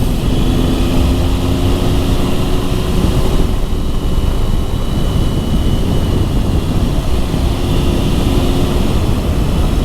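A motorcycle being ridden at a steady speed, its engine note held steady under heavy wind rush on the helmet microphone.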